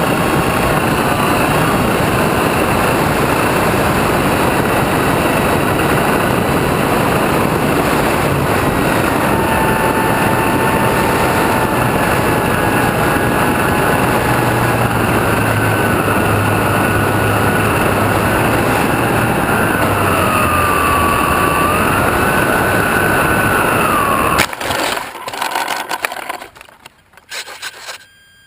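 Onboard sound of an electric RC model plane in flight: a steady rush of air with the motor's whine gliding up and down in pitch. About 24 seconds in the rush cuts off abruptly, followed by a few scraping knocks that die away as the plane lands on grass.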